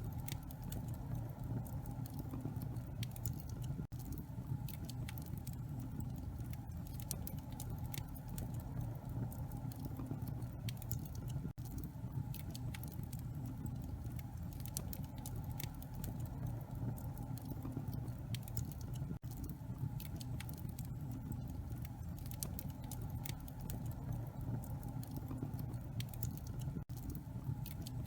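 Wood fire crackling in a fireplace: scattered sharp pops and snaps over a steady low rumble. Brief dropouts every seven or eight seconds show a short recording looped.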